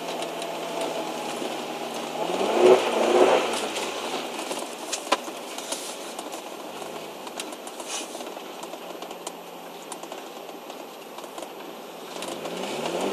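Car engine heard from inside the cabin while sliding on packed snow, revving up sharply about three seconds in, then running at lower revs before climbing again near the end, over a steady hiss of tyres on snow. A sharp click about five seconds in.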